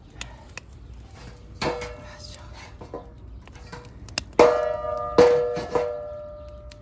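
A large iron frying pan clanking and ringing as a metal utensil strikes it while stir-frying fried rice. There are several knocks, the three loudest about four and a half to six seconds in, each leaving a ringing metallic tone.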